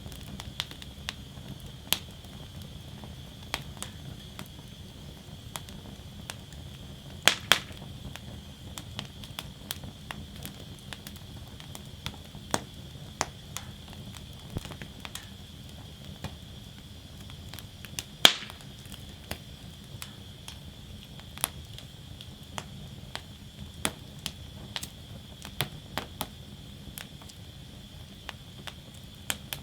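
Wood fire burning in a fire basket, crackling with irregular sharp pops over a steady low rush. The loudest pops are a quick pair about a quarter of the way in and a single sharp one just past halfway.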